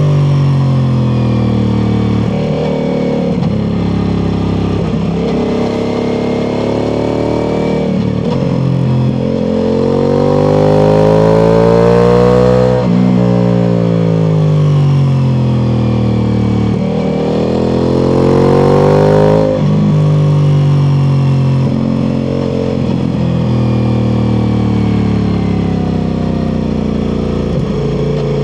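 Ducati Multistrada V4 Pikes Peak's V4 engine through an Akrapovic exhaust, riding hard: revs rise and fall as the rider accelerates, shifts and rolls off. There is a long pull peaking about twelve seconds in that then winds down, and another climb that is cut off sharply at about nineteen seconds.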